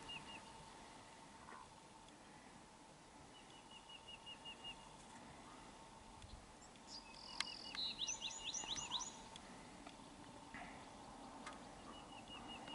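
Faint songbird singing in quick runs of short, high, repeated notes, once about three seconds in and again about eight seconds in, with a single sharp click just before the second run.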